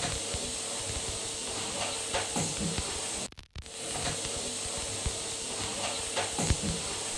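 Steady white-noise hiss with a faint even hum beneath it, cutting out briefly about three and a half seconds in.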